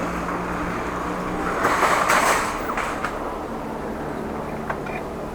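Steady riding noise picked up by a bike-mounted action camera. About one and a half seconds in comes a louder rustling scrape lasting about a second, followed by a few sharp clicks.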